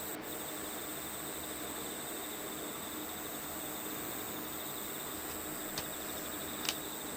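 Steady chirring of crickets over an even hiss, with two light clicks near the end.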